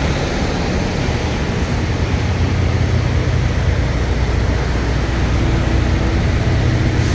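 Semi truck's diesel engine running with a steady low drone as the truck moves at low speed.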